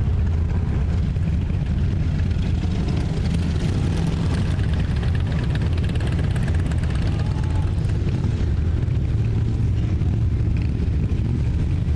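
Many motorcycle engines rumbling together in a slow parade of bikes, a steady, dense low rumble with no single engine standing out.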